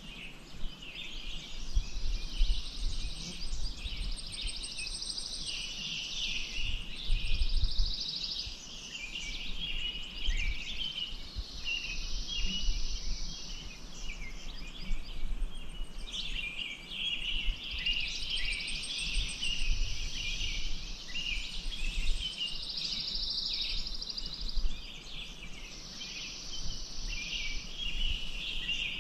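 A chorus of small birds chirping and singing continuously, with repeated buzzing trills a few seconds long, over a low uneven rumble.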